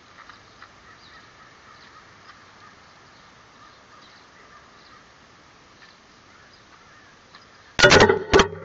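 Quiet outdoor background with faint bird chirps, then two loud harsh bird calls near the end.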